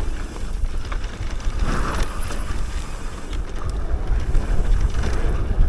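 Wind rushing over the microphone with a steady low rumble and scattered clicks and rattles from an electric mountain bike riding down a dirt trail.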